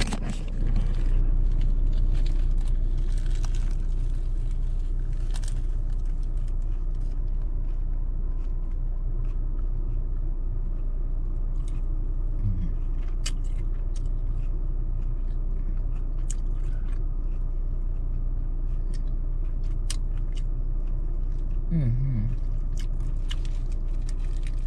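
A person chewing and biting into a sausage biscuit, with soft wet mouth clicks scattered throughout, over a steady low rumble inside a car. A short closed-mouth hum comes about halfway, and another near the end.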